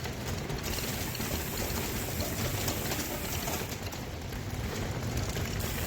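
Bike being ridden: a steady rolling rumble from the tyres and drivetrain, with a faint mechanical rattle.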